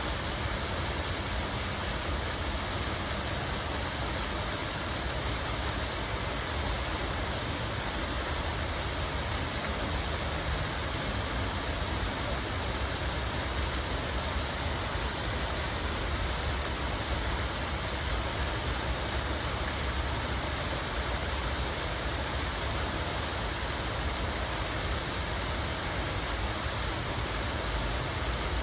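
Running water rushing steadily and evenly, with a deep rumble underneath.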